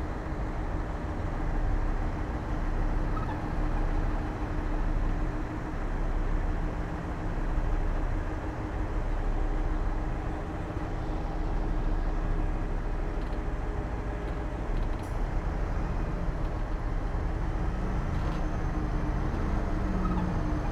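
Diesel engine of heavy earthmoving machinery running steadily under a continuous drone, with a steady hum held throughout.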